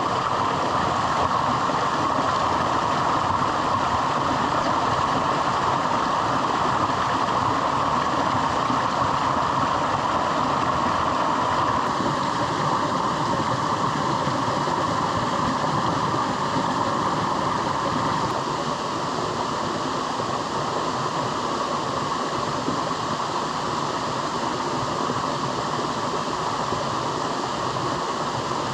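Stormy mountaintop weather: a steady rushing noise of strong wind and rain. It eases a little about two-thirds of the way in.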